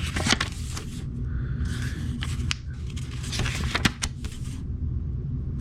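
Paper rustling and soft handling clicks as the pages of a small printed owner's manual are turned and handled, in several short scratchy bursts.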